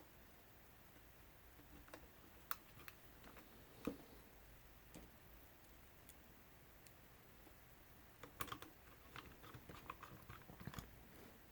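Faint clicks and taps of a small driver and screws against a drone's plastic shell as screws are started into its underside: a few scattered clicks in the first half and a busier run of clicks near the end.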